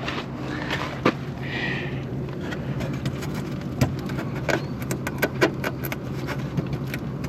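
Scattered light knocks and clicks, as of metal parts being handled, over a steady low hum.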